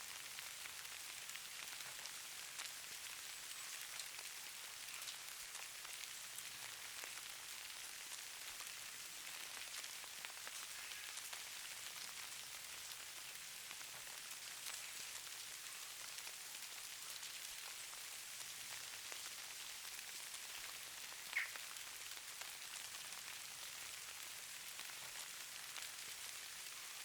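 Steady fine patter and hiss of precipitation falling on surfaces, with one sharper tick about 21 seconds in.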